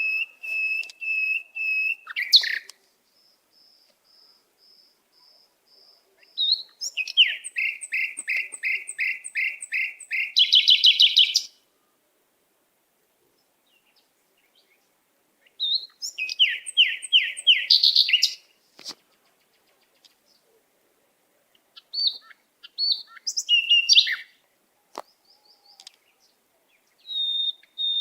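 Songbird singing in separate phrases: runs of quick, clear whistled notes several a second, one phrase ending in a fast trill, with pauses of a few seconds between phrases.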